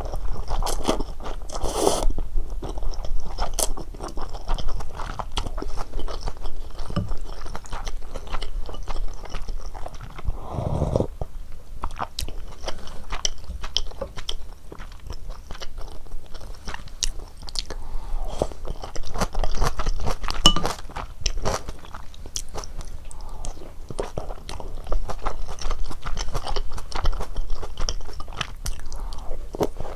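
Close-miked eating sounds of a person chewing and biting cheese ramyeon with dumplings, full of small sharp mouth clicks.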